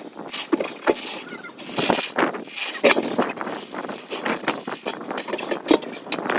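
Hand tools clinking, knocking and scraping on metal in irregular bursts while working on a tractor wheel rim.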